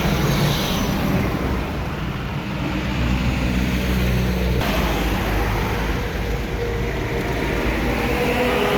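Trucks passing on a road: engines running with a low, steady hum and tyre and road noise. The sound shifts abruptly about halfway through.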